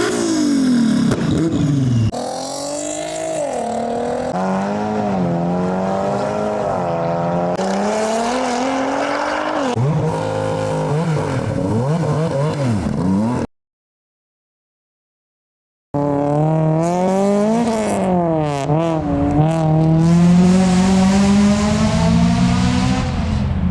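Modified performance car engines revving and accelerating away, the pitch rising and falling with each blip and gear change. Midway the sound cuts off to silence for a couple of seconds, then resumes with a few sharp cracks from the exhaust among the revving.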